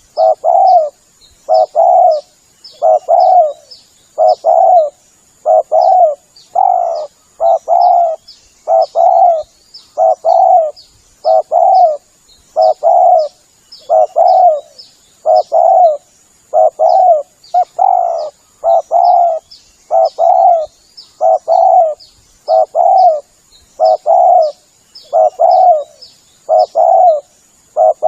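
Spotted dove (tekukur) cooing, a lure call: short phrases of two or three low coos repeated about every second and a half.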